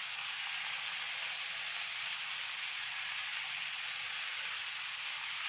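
Mixed chopped vegetables sizzling in oil in a kadhai: a steady, even frying hiss.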